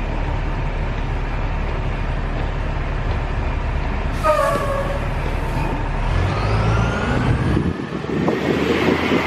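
Tour bus running with a steady low rumble; about four seconds in, a short hiss of the air brakes with a brief tone. The engine note then changes and a rising whine follows as the bus gets moving.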